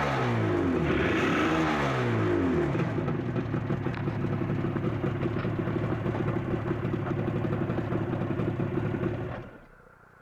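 Suzuki RG250Γ two-stroke parallel-twin engine being revved with a few throttle blips, then running at a steady idle. It falls away near the end.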